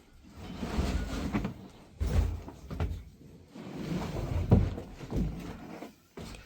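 Irregular bumps, knocks and rustling of things being handled and moved, with the loudest thump about four and a half seconds in.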